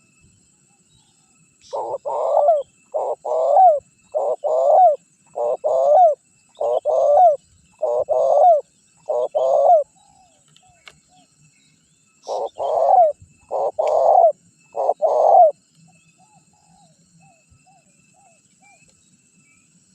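Spotted dove (tekukur) cooing: a steady run of seven repeated coo phrases, a pause of about two seconds, then three more. It is a vigorous ('gacor') calling bird used as a lure call. Faint high chirps of other small birds are heard in the gaps.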